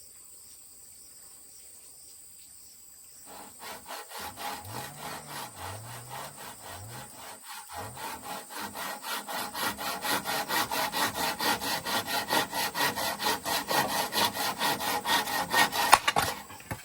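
Rhythmic back-and-forth scraping strokes, like hand-sawing or rasping, starting a few seconds in and growing louder, with a sharp knock near the end.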